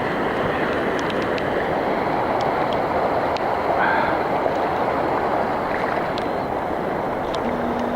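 Floodwater rushing steadily across a yard and road, a constant loud wash with scattered faint ticks.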